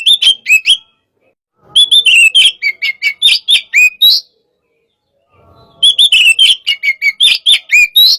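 Oriental magpie-robin (kacer) singing loud, fast runs of short whistled notes that glide sharply up and down, about five notes a second, in three bursts broken by pauses of about a second. This is the rapid, excited 'hot' style of kacer song.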